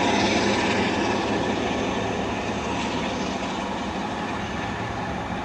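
Diesel-hauled passenger coaches rolling past and away on the rails, the sound fading slowly as the train recedes, with the Class 47 locomotive's Sulzer diesel engine pulling away at the head of the train.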